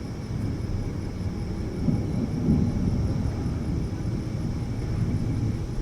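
Thunderstorm rumbling low and gusty, swelling about two to three seconds in.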